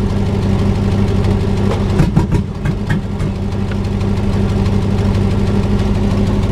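Truck engine running steadily at idle. A few sharp clacks come about two seconds in.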